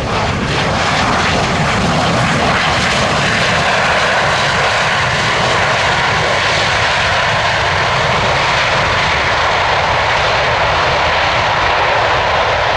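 Twin turbofan engines of a Mitsubishi CRJ-900 regional jet, running loud and steady as it lands. The level builds at the start and then holds.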